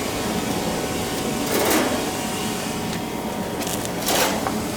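A small motor running steadily, with short bursts of hiss about a second and a half in and twice near the end.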